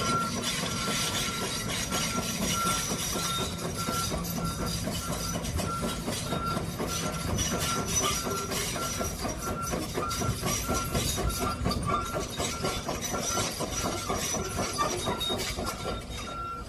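An excavator working, with a continuous mechanical clatter and a steady series of short, high alarm beeps at one pitch, like a travel or back-up alarm.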